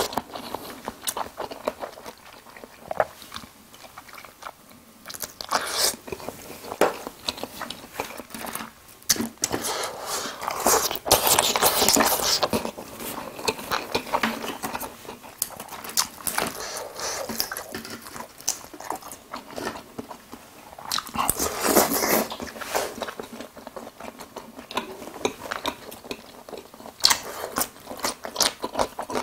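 Close-miked chewing and crunching bites of jajangmyeon noodles and crispy fried tangsuyuk pork. The eating comes in irregular bursts, louder about ten to twelve seconds in and again around twenty-two seconds.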